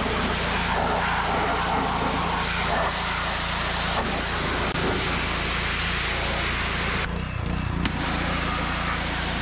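Gasoline-engine pressure washer running with the spray going, a steady hiss over the engine's drone. The spray cuts out for under a second about seven seconds in while the engine keeps running.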